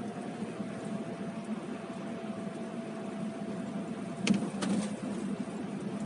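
Steady hum of a car's engine heard from inside the cabin, with a faint steady tone that fades out about four seconds in, followed by two sharp clicks.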